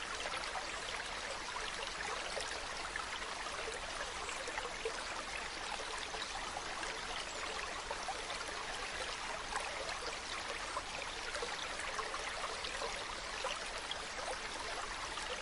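Mountain stream running steadily over rocks, a continuous rush of water with fine babbling and trickling detail.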